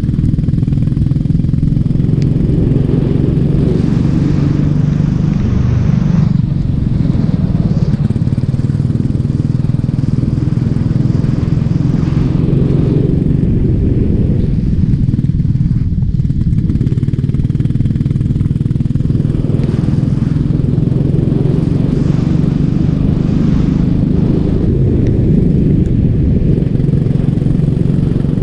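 Racing kart engine running continuously and loud, close to the microphone, its note swelling and easing in turn as the kart goes around the track.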